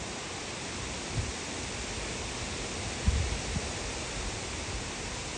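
Wind blowing across the microphone: a steady hiss, with low buffeting thumps from gusts about a second in and again around three seconds in.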